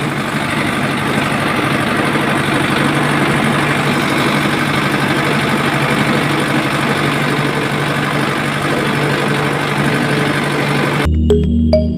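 A small motor running steadily with a constant low hum, cutting off suddenly about eleven seconds in as background music returns.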